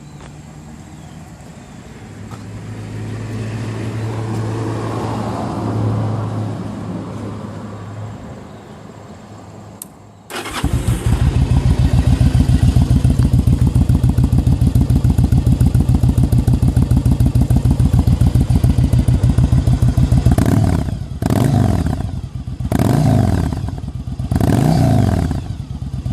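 Yamaha V Star V-twin motorcycle engine starting about ten seconds in and idling steadily through its exhaust, then revved three times in quick blips near the end, the pitch rising and falling with each.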